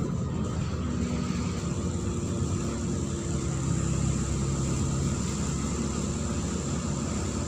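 Neman city bus's diesel engine running steadily as the bus drives, a low drone with a few steady tones.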